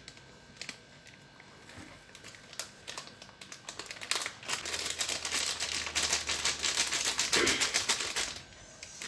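Food-preparation handling sounds: a few scattered clicks, then about four seconds of rapid, dense rattling and scraping that stops abruptly, as dry ingredients are worked in a bowl.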